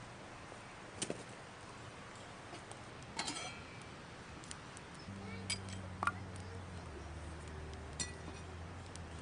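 Scattered light clinks and taps of camp cookware and utensils being handled, one with a short ringing about three seconds in. A low steady hum comes in about halfway.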